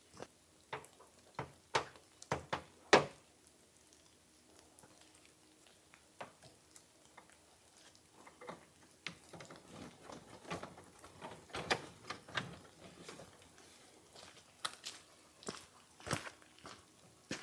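Irregular sharp taps and ticks, single or in small clusters. The loudest comes about three seconds in, there is a quieter stretch after it, and a denser run of taps follows in the middle.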